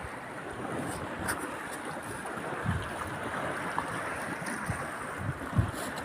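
Sea surf washing steadily, with wind buffeting the microphone in a few low thumps.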